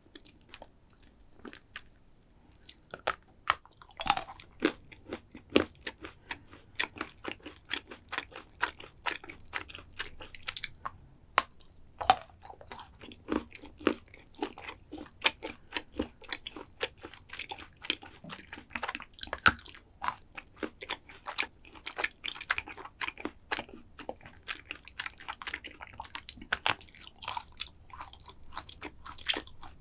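Close-miked chewing and crunching of chocolate dessert, with many quick crisp crunches between softer, wetter chewing sounds. It is quieter for about the first two seconds.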